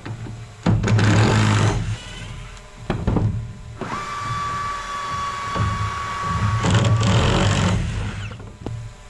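Power drill running in bursts: a short run about a second in, a brief one near three seconds, then a long run of about four seconds with a steady motor whine.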